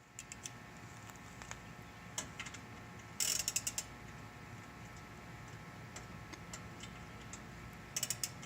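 Hand ratchet wrench clicking in short quick runs, the clearest about three seconds in and again near the end, while mufflers are bolted onto a car exhaust.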